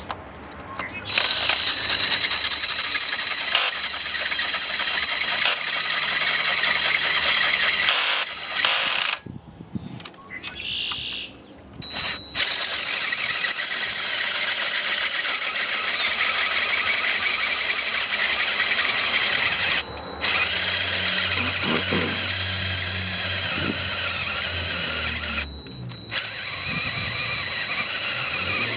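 Power drill boring into a steel bolt to drill it out, with the bit squealing steadily in the metal. It runs in several long stretches, stopping briefly about a third of the way in, again about two-thirds in, and near the end.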